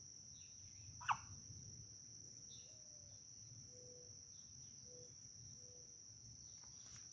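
Crickets chirring steadily, with one light click about a second in.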